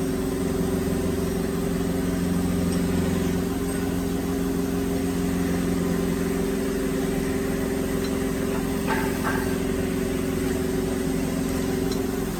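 Electric motor of a woodworking drilling machine running with a steady hum, then switching off at the end.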